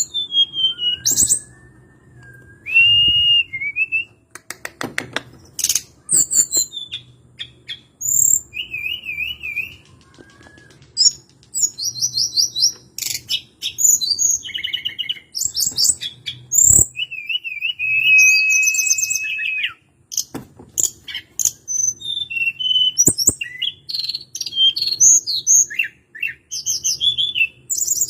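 Hill blue flycatcher singing a long, varied song: quick high chirps, rapid trills, zigzag warbled notes and one held whistle, with sharp clicks between phrases. A faint low hum runs underneath.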